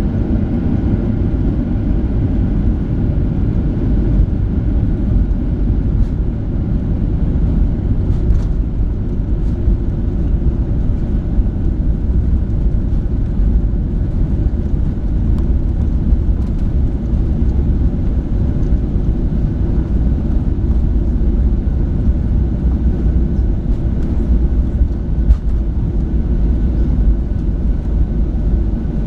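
Steady cabin noise inside a Boeing 737-700 in flight: a constant low rumble of the CFM56-7B engines and airflow, with a faint steady whine above it.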